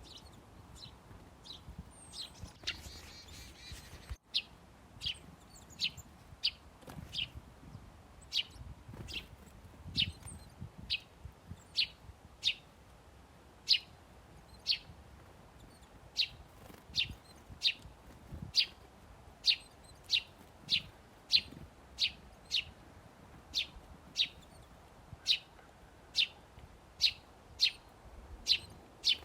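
A small songbird chirping over and over: short, sharp, high chirps, each dropping quickly in pitch, repeated about one and a half times a second.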